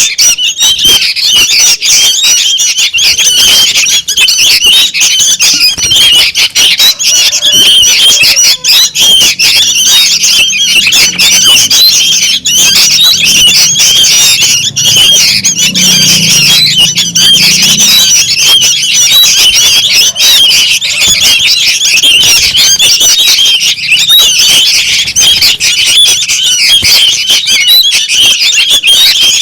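A crowd of young sooty-headed bulbuls calling noisily, a dense, unbroken chatter of high, rapid squawking calls. This is the kind of chick-call recording used as a lure to draw adult bulbuls.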